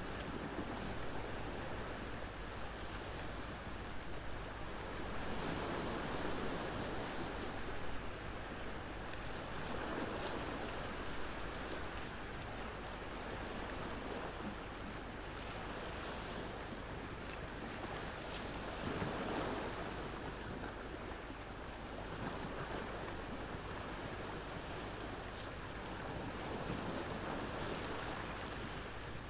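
Ocean waves breaking and washing in slow swells, with a wood campfire crackling.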